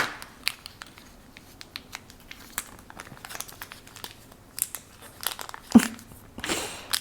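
Small plastic bag crinkling and rustling in irregular small crackles as fingers work a watch mainspring out inside it, with a louder crinkle near the end.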